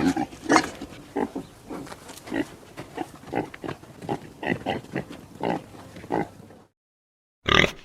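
A quick series of short animal grunts and snorts, used as creature sound effects. It cuts off abruptly, and after a silent gap one more short, loud grunt comes near the end.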